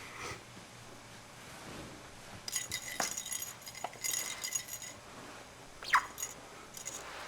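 A small bell inside a budgie's toy ball jingling and clinking for about two and a half seconds as the ball is knocked about, then one short, sharp falling squeak about six seconds in.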